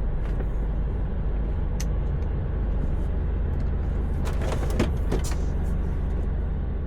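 Steady low rumble of a Mercedes-Benz Actros truck heard from inside the cab, with a single sharp click about two seconds in and a short run of clicks and rattles around four to five seconds in.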